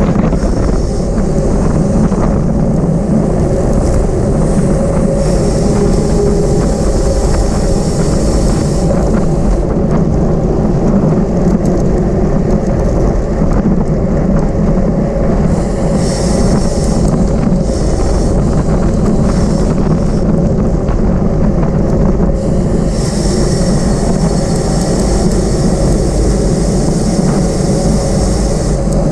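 Wind rushing over the microphone of a camera riding along on a racing bicycle at speed, a steady loud rumble. A high hiss comes and goes several times, loudest from about five seconds in and again from about twenty-three seconds in.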